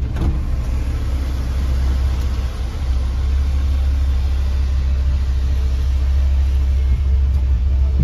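Engine of a 1986 Chevy El Camino heard from inside the cabin, running at low speed as the car creeps forward: a steady low rumble with a light hiss over it.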